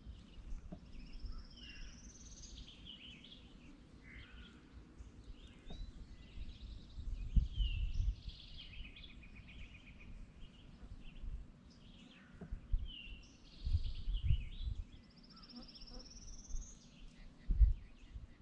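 Songbirds singing, with a repeated phrase ending in a rising trill and a lower buzzy trill between. Low rumbling bumps come and go underneath and are the loudest sounds.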